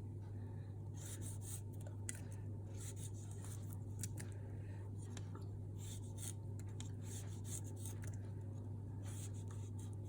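Soft, irregular scraping and rubbing strokes of tomatoes being prepared for papaya salad, with no heavy pounding, over a steady low electrical hum.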